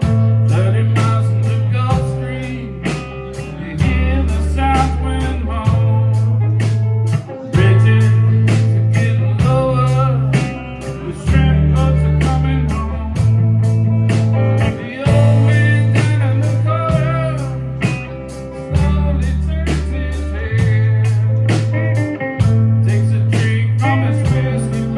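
Live blues-rock band playing an instrumental passage: bass and drums keep a steady beat while a guitar plays a lead line with bending notes.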